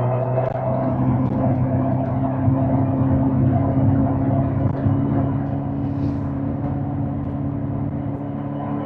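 2005 Suzuki GSX-R1000 K5's inline-four engine running at steady revs while riding, its pitch easing slightly lower near the end.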